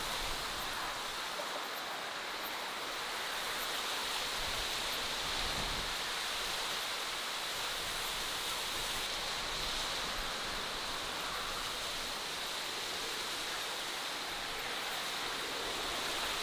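Steady natural outdoor ambience: an even, unbroken hiss with no distinct events.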